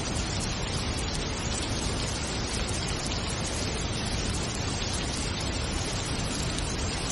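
Steady, dense rainfall, an even hiss of countless drops with no let-up.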